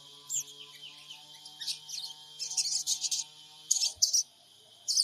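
Sogon birds calling: quick, high-pitched chirps and twitters in bursts, over a faint steady low hum.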